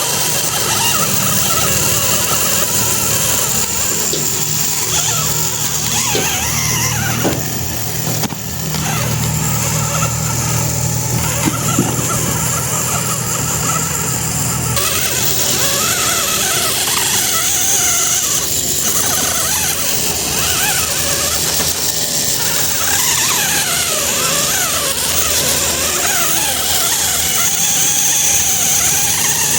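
Small electric motor and gears of a radio-controlled model tractor running, with a steady high whine.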